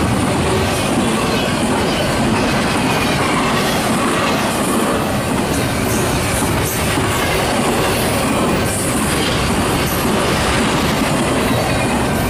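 Double-stack intermodal train of loaded TTX well cars passing close by: a steady, loud rumble and clatter of steel wheels on the rails that holds level throughout.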